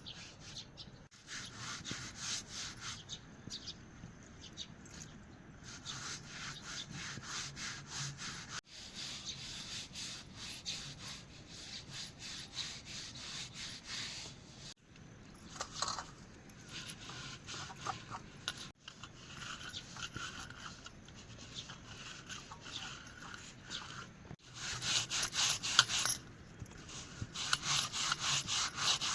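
Rapid, repeated scraping strokes coming in runs with short breaks between them, loudest near the end.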